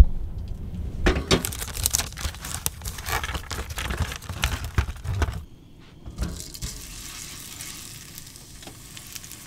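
A frying pan knocks down onto a gas hob, then a plastic wrapper and tray crinkle and rustle as a burger is unwrapped. About six seconds in, a quieter steady sizzle begins as the burger goes into the hot pan.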